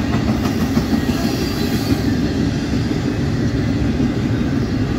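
Intermodal freight cars with trailers and double-stacked containers rolling past: a steady rumble of steel wheels on the rails.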